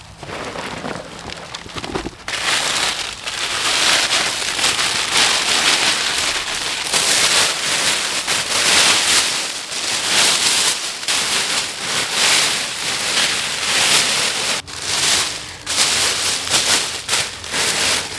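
Foil survival blanket crinkling and rustling as it is handled and spread out, in loud, uneven swells.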